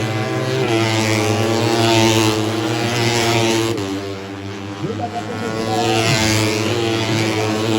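Racing 150cc four-stroke underbone motorcycles running at high revs, their engine note swelling as they pass, about 2 seconds in and again about 6 seconds in.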